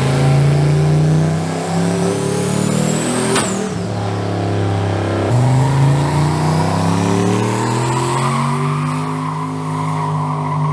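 Turbocharged truck engine at full throttle, revving up with a rising turbo whine. Both drop sharply about three and a half seconds in, then the engine climbs again through the rest of the pull. The boost is running low on a light wastegate spring, and the crew suspects a boost leak.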